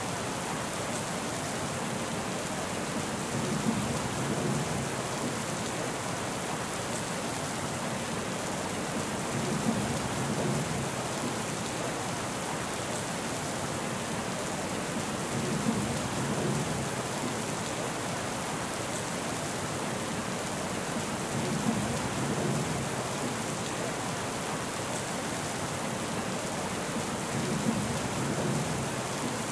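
Steady rain falling, an even hiss, with a low swell coming back about every six seconds.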